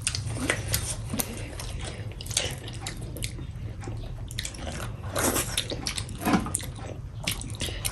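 Close-miked eating sounds: chewing and wet mouth sounds with many short, irregular clicks, a little busier about five and six seconds in.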